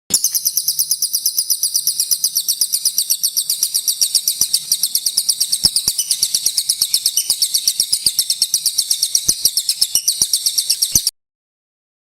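A cililin songbird singing a rapid rolling song ('ngerol'): a fast, even run of high, thin notes at about seven a second, held for some eleven seconds before it cuts off suddenly. Faint clicks sound beneath it.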